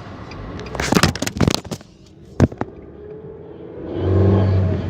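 A handheld camera knocking and clattering against the inside of a car as it falls: a quick cluster of hard knocks, then one more. Near the end the car's engine rises as the car pulls away quickly.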